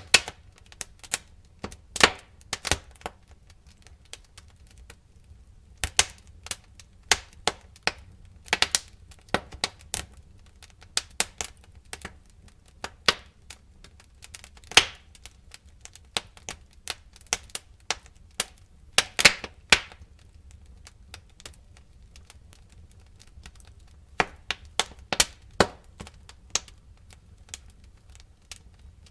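Crackling fire: irregular sharp pops and crackles, some single and some in quick clusters, over a steady low rumble.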